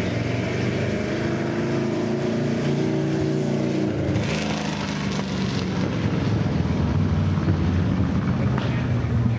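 Classic-car engines running at slow cruising speed, the engine pitch rising and then falling once over the first few seconds. About four seconds in, a car passes close by with a short rush of noise.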